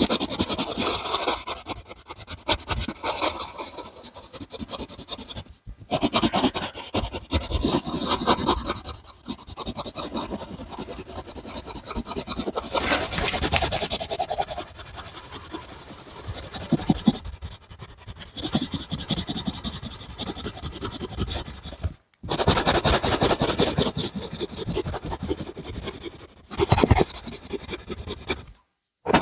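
A drawing tool scratching and rubbing on paper in quick back-and-forth strokes, as when colouring in. The sound stops dead for a moment a few times.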